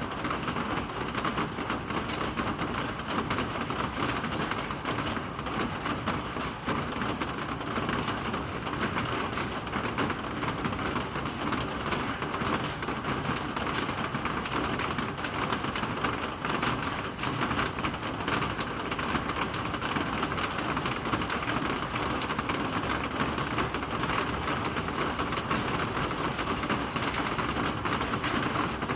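Steady rain falling, a continuous hiss made of many fine drop impacts, at an even level without let-up.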